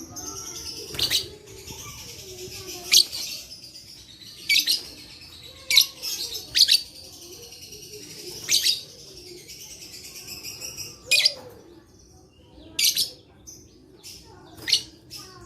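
Lovebird chattering in a long, continuous high trill, broken by sharp, shrill chirps every second or two; the trill stops about eleven seconds in, leaving only separate chirps.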